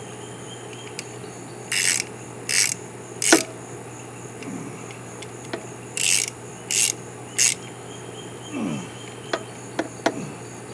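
Tightening with a ratcheting tool: two runs of three short ratcheting rasps, then a few light clicks of small parts being handled near the end.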